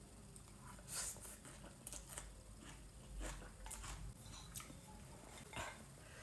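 Faint eating sounds: scattered soft clicks and taps of utensils with chewing and biting.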